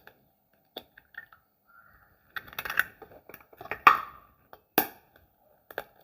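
Irregular knocks and clicks of eggs and a utensil against a bowl as eggs are broken and readied for beating, the sharpest knock a little before the end.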